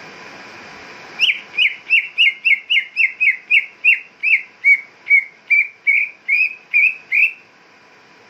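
Greater green leafbird (cucak ijo) calling: a series of about seventeen loud, clear whistled notes, each dropping in pitch, about three a second, starting about a second in and stopping near the end. It is a trigger call used to provoke a cucak ijo into singing.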